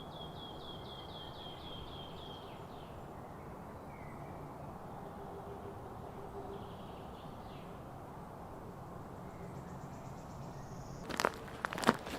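Forest ambience with a small bird singing a quick trill of high repeated notes at the start and a few faint calls later, over a steady low rush. Near the end, footsteps crunch on the forest floor.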